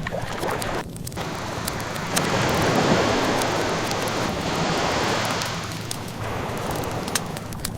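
Ocean wave washing in: a surge of surf that swells about a second in, peaks, and fades away over several seconds. The light crackle of burning wood is heard before and after the surge.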